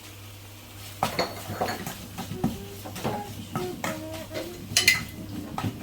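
Steel utensils and pots clinking and scraping while cooking: a run of sharp clicks and short metallic rings starting about a second in, over a steady low hum.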